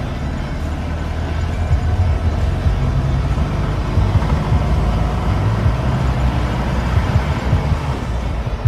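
A motor vehicle travelling, with a steady low engine and road rumble.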